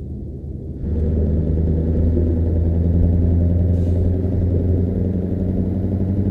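Scania V8 truck engine rumbling. It gets suddenly louder about a second in, then holds a steady deep note.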